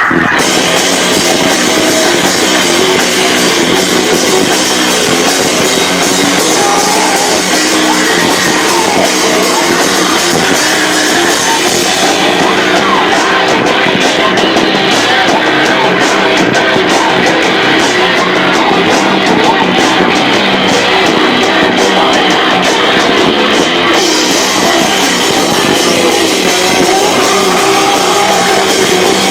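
Loud live rock band with electric guitars and drum kit playing without a break, distorted because the camcorder microphone is overloaded.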